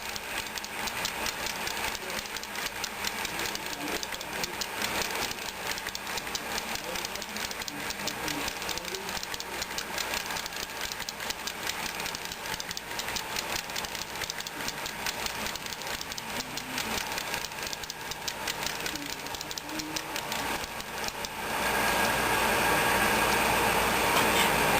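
Model train running on the layout track: a rapid, steady rattling clatter of wheels and mechanism on the rails. Near the end a louder steady hiss joins in.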